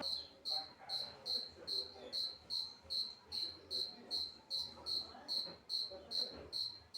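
A cricket chirping steadily, short high-pitched chirps repeating at an even pace of about two and a half a second.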